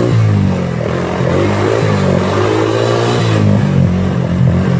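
Four-wheeler (ATV) engine revving hard during a wheelie, its pitch climbing at the start, then holding and wavering up and down with the throttle.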